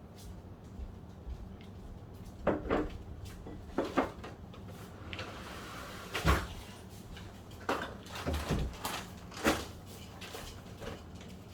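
A series of irregular plastic knocks and clatters from a Fisher-Price Rainforest Jumperoo being played in, the loudest about six seconds in.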